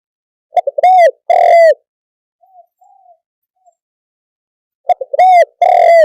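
A spotted dove cooing: two loud phrases, each a couple of short notes and then two longer coos, the second phrase near the end. A few faint soft coos come between them.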